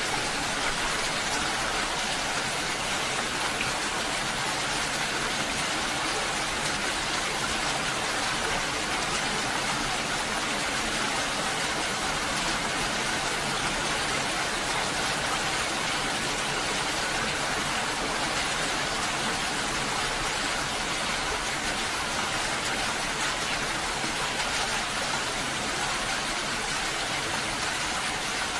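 Steady rainfall, an even unbroken hiss with no thunder or music.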